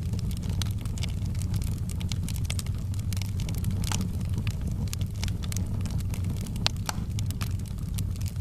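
Wood fire in a fireplace crackling, with frequent irregular sharp pops and snaps, a few louder ones, over a steady low rumble.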